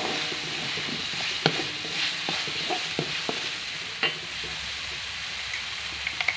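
Ground spice paste with bay leaves, lime leaves, galangal and lemongrass sizzling as it fries in a stainless steel wok, stirred with a metal spatula that scrapes and knocks sharply against the pan several times. The sizzle eases a little about four seconds in.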